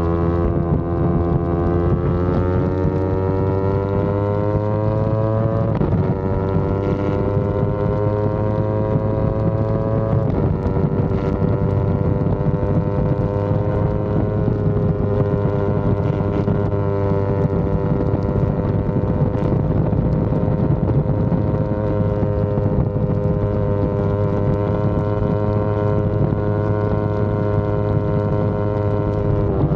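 Yamaha R25 parallel-twin engine accelerating through the gears: the pitch climbs for about six seconds, drops at a gearshift, climbs again and drops at a second shift about four seconds later, then holds a steady cruising pitch with small rises and falls. Wind noise on the microphone underneath.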